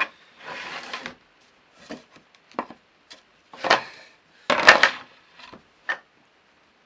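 Wooden boards handled on a workbench: a scatter of light wooden knocks and clicks, with two louder knocks about halfway through.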